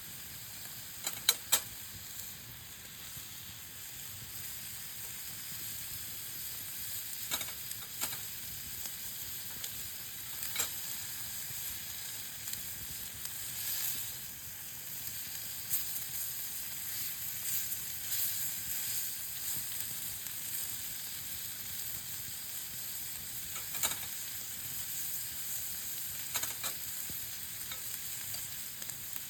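Meat sizzling as it cooks over a campfire: a steady hiss broken now and then by sharp pops.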